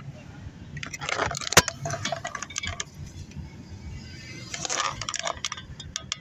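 Irregular light clicks and clinks rattling inside a moving car, with one sharper click about one and a half seconds in, over a low steady road rumble.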